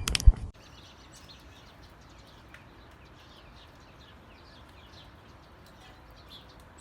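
A sharp knock, then after an abrupt cut, faint birds chirping: many quick, short notes.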